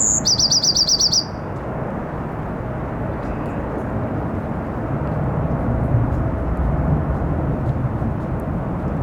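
A small songbird sings one short phrase about a second long: a high whistled note sliding down, then a quick trill of about ten notes. Under it runs a steady hiss of wind and rain, with a low rumble building from about halfway through.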